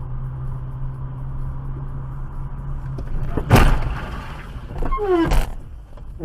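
Car running along the road, recorded by a dash cam, with a steady low hum. About three and a half seconds in comes a sudden loud crash-like impact, and near five seconds a second loud noise falling in pitch.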